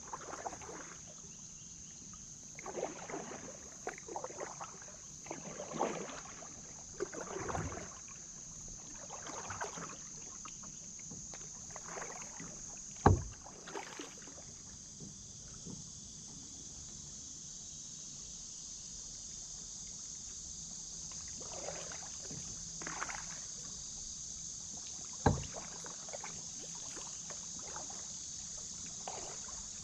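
Kayak paddle strokes dipping and splashing in the water in an uneven run, with two sharp knocks, about thirteen seconds in and again about twenty-five seconds in, over a steady high-pitched hiss.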